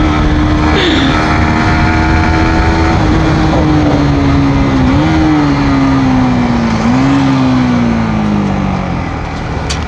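Yamaha MT-15 V2's 155 cc single-cylinder engine with its stock exhaust, heard while riding. The engine note holds steady, then falls as the bike slows, stepping back up briefly about halfway and again about two-thirds through, as it is downshifted. Wind and road noise run underneath.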